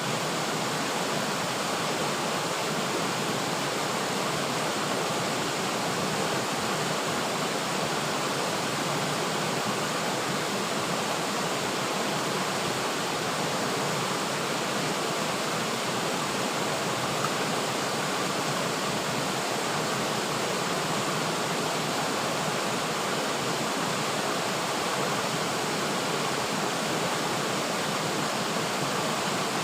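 River water flowing, a steady rushing of water over rocks with no breaks or other events.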